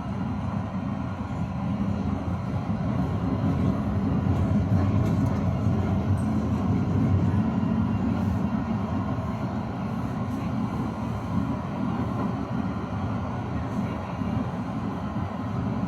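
Tram running along its rails, heard from inside the car: a steady low rumble that grows a little louder partway through.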